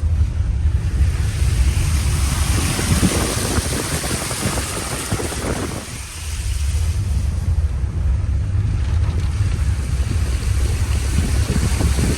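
Four-wheel drive's engine running low while water rushes and splashes against the vehicle as it drives through a flooded crossing. The splashing is heaviest in the first half and eases briefly about halfway through.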